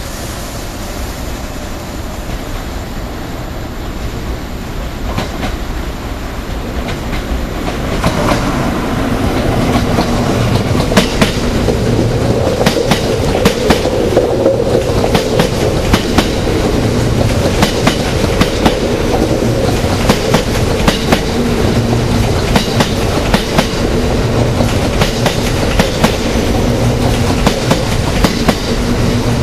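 Hakutaka limited express electric train approaching and running past. It grows louder over the first several seconds. Then its wheels clack over the rail joints and points in a long run of sharp clicks, over a steady hum.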